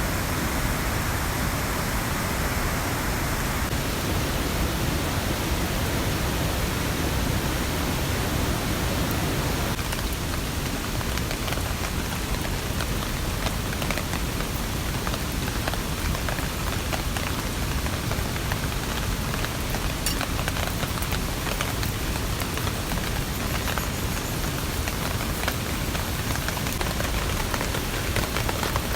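Steady rain falling, with scattered drops tapping sharply on a surface through the later part.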